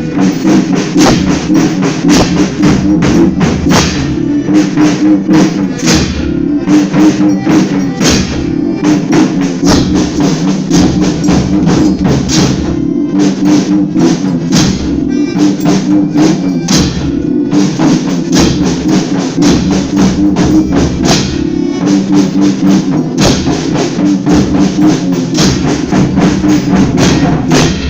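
Folia band's instrumental interlude between sung verses: drum and tambourine keep up a steady, fast beat over held instrument notes.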